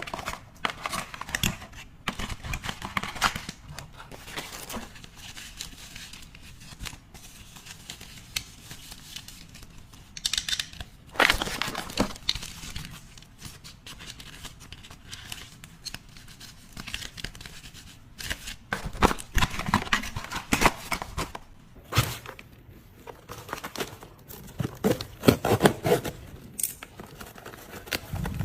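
Packaging being handled and opened by hand: crinkling and tearing with scattered sharp clicks and taps, louder in a few bursts.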